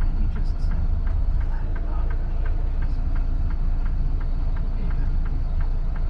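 Semi-truck's diesel engine and road noise heard inside the cab: a steady low rumble with a fast, regular light ticking over it.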